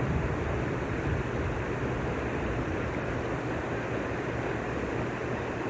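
Steady rushing noise of a flash-flood torrent of rainwater, an even roar with a deep rumble.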